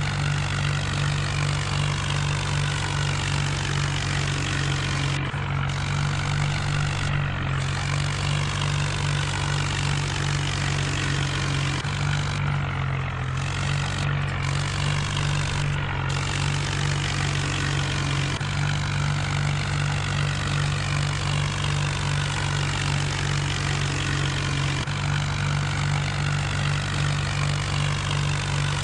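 John Deere tractor's diesel engine running at a steady speed, a deep, even hum that does not let up.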